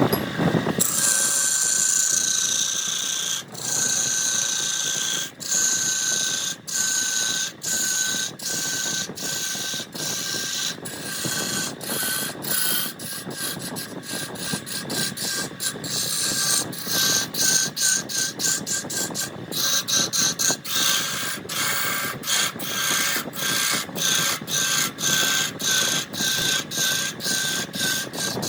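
Wood lathe spinning a jackfruit log while a turning tool cuts it: a scraping, hissing cut over a steady high whine. The sound breaks off in short, evenly spaced gaps, about one a second at first and about two a second in the second half.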